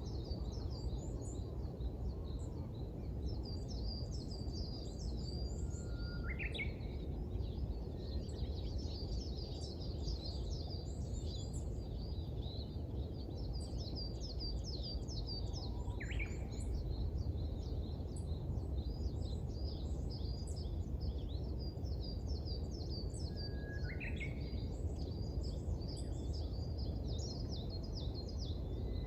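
Dawn chorus of small birds: dense, continuous high chirping and twittering, with a louder rising call from another bird three times, several seconds apart. A steady low background rumble runs underneath.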